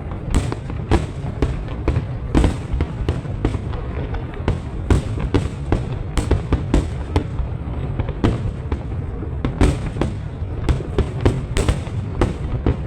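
Fireworks and firecrackers going off in a steady barrage: irregular sharp bangs and cracks, several a second, over a constant low rumble.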